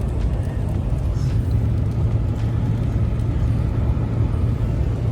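Steady low rumble of a motor vehicle running, with engine drone and road noise and a constant low hum throughout.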